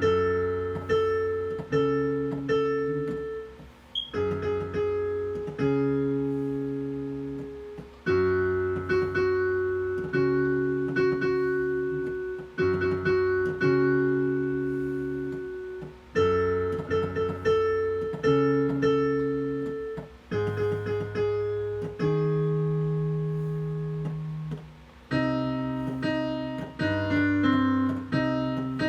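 Piano played solo: slow held chords over low bass notes in short phrases with brief pauses, turning to quicker notes in the last few seconds.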